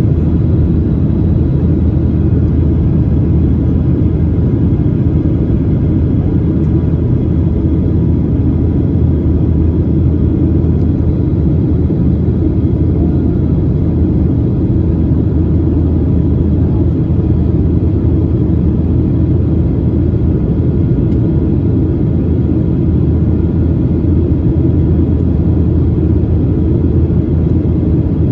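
Boeing 737-800 cabin noise in flight: a loud, steady rumble of its CFM56 engines and airflow, with a few faint steady tones above it and no change throughout.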